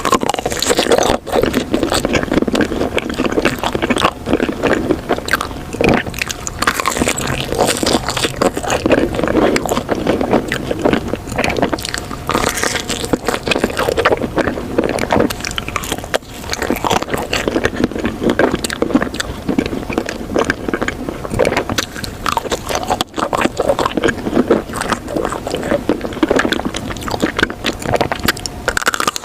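Loud, close-up crunching and chewing, dense with short crackles throughout.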